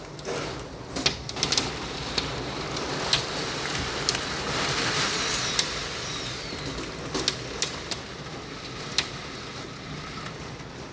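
Steady rain from a hail storm, with scattered sharp taps of impacts throughout and a swell in the wash of noise around the middle.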